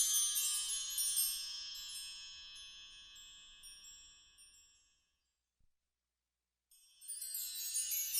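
A cluster of high metallic chimes struck together, ringing and fading away over about five seconds. After a moment of silence, a second cluster is struck near the end.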